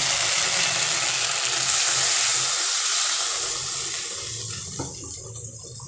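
Fried masala paste sizzling in hot oil in a karahi as water is poured in, a loud hiss that dies away over the last couple of seconds.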